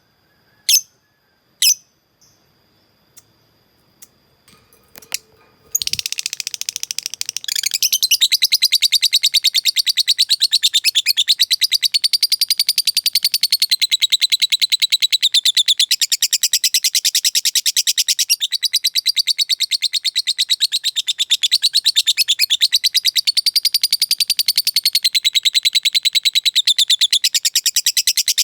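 Lovebird giving a few short sharp chirps, then about six seconds in breaking into 'ngekek': a long, unbroken, very fast chattering trill that keeps going without pause.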